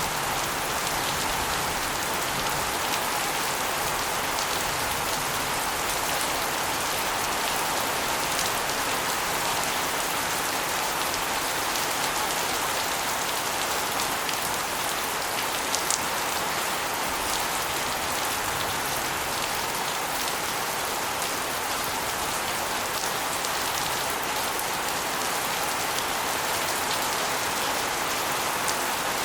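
Steady rain, with runoff from an asbestos roof spilling over and splashing onto a concrete floor and walls in a dense, even patter. There are fine drop ticks throughout and one sharper drip or click about halfway through.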